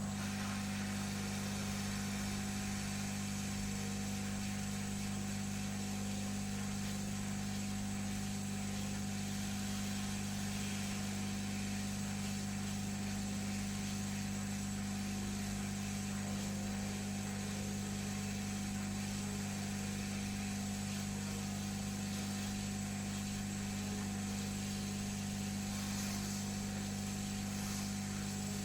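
Hot air rework gun blowing steadily: an even rush of air over a low, constant hum, heating the board to loosen a soldered Wi-Fi chip.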